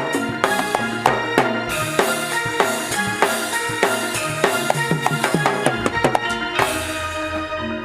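Live jaranan senterewe ensemble music: drums and percussion beat a fast, dense rhythm over ringing pitched tones, with a bright cymbal-like crash near the end.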